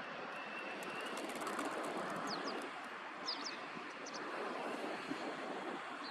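Steady outdoor background noise with a few short, high, quick bird chirps about two, three and four seconds in.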